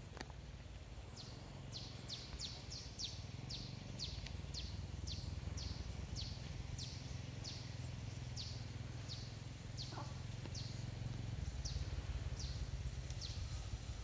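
A bird calling over and over with short, high notes that each slide downward, about two a second, a little quicker at first, over a steady low rumble.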